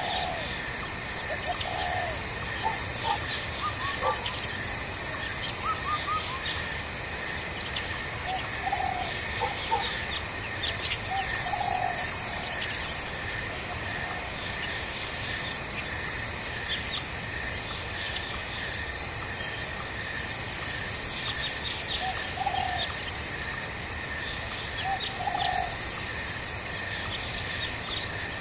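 Night forest ambience: a chorus of insects keeps up steady high trilling, while a very high-pitched trill switches on and off every few seconds. Short chirping calls break in here and there.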